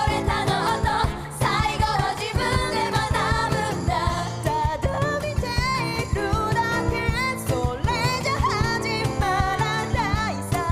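Female voices singing a pop song with live acoustic band accompaniment and a steady beat.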